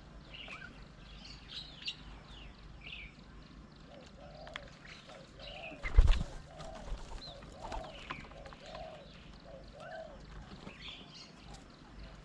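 Several birds chirping and calling at a garden bird table, with a run of about eight low, evenly repeated call notes from about four and a half to ten and a half seconds in. A single sharp thump, the loudest sound, comes about six seconds in.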